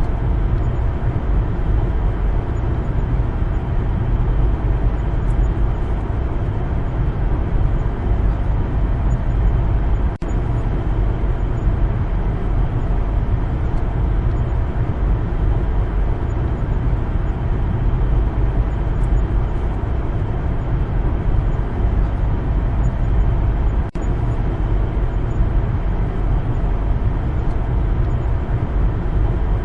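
A car driving on a road: a steady low rumble of tyre and engine noise, with two very brief dips, one about a third of the way in and one about four-fifths through.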